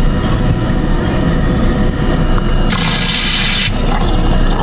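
Self-serve soda fountain dispensing a drink into a cup: a hissing gush lasting about a second, near the end, over a steady low hum.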